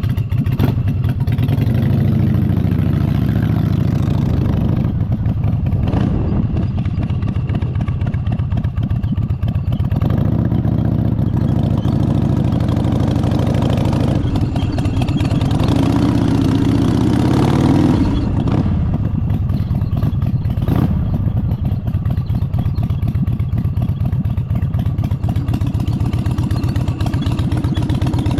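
Motorcycle engine running under way, its pitch rising with throttle and falling back sharply at gear changes, with a long climb that drops off about two-thirds of the way through.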